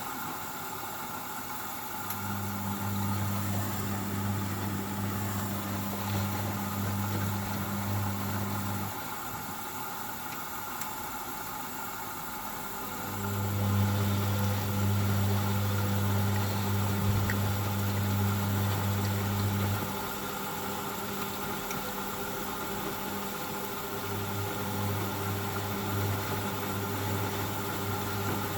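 Hoover Baby washing machine motor humming in runs of several seconds with pauses between, as it turns the drum during a rinse. The middle run is the loudest.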